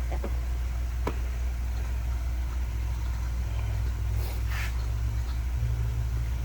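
Steady low hum of a running shop machine motor, with a single sharp click about a second in and a brief hiss about four seconds in.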